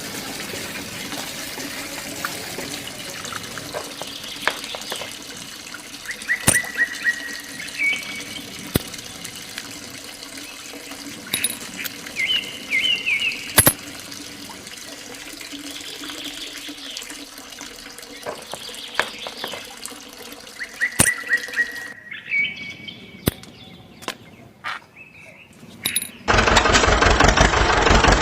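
Water running steadily, with sharp clicks and a few short bird chirps. Near the end a small motor starts with a loud, evenly pulsing buzz.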